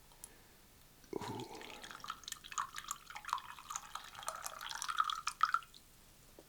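Liquid pouring and dripping into a cup. It starts about a second in as a stream with many small splashes and a pitch that rises slowly, and it stops near the end.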